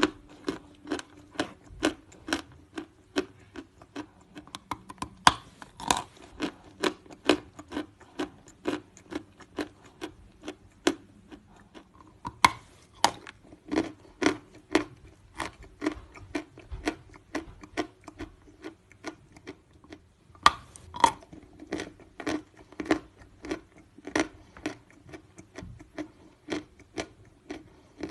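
Close-miked chewing of natural chalk: steady crunching at about two chews a second, with a few louder, sharper bites about 5, 12 and 20 seconds in.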